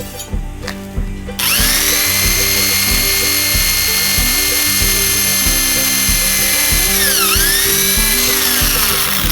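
An electric power tool switches on about a second and a half in and runs with a loud, steady high whine. Its pitch dips sharply and recovers about seven seconds in, as when the motor takes a load, then fades near the end. Background music with a steady beat plays throughout.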